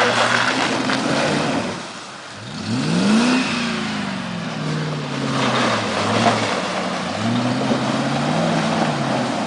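Land Rover Discovery's engine revving hard under load, dipping about two seconds in, then rising sharply and easing off, and climbing again near the end, over a steady rushing noise.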